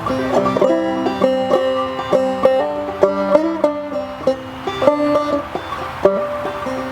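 Acoustic plucked-string music: a quick melody of picked notes over held lower notes, played as the instrumental opening of a song before the singing comes in.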